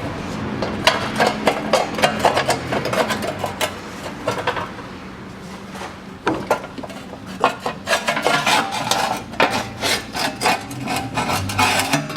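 Lada Priora's sheet-metal underbody heat shield being worked free by hand, scraping and rattling against the car's underside in a long string of irregular clicks and rubs, with a quieter stretch about halfway through.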